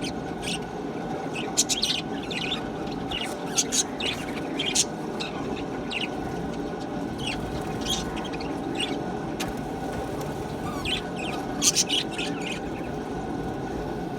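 Budgerigars chirping and chattering in many short, high calls, over a steady low background noise.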